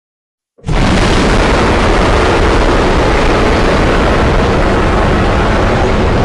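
Custom-made monster roar sound effect: a loud, rough, rumbling noise that starts abruptly about half a second in and holds steady.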